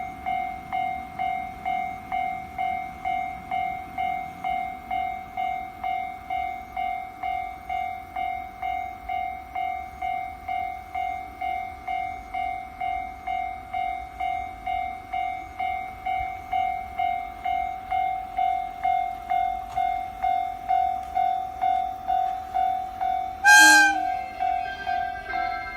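Japanese railway level-crossing alarm ringing on and on, a single electronic tone pulsing about twice a second. Near the end a train horn gives one short, loud blast.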